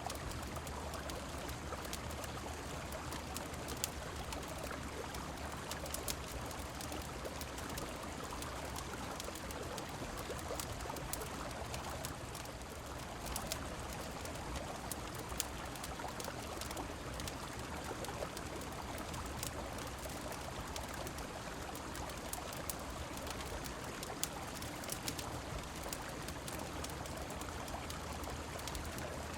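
Mixed river, rain and fireplace ambience: steady flowing water with scattered short, sharp clicks through it.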